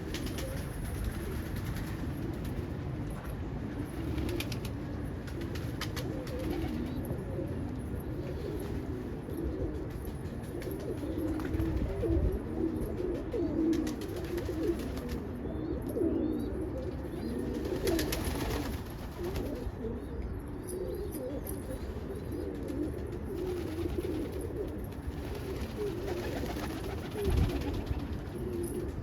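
Many pigeons cooing at once, a continuous chorus of overlapping low calls, with a single low thump near the end.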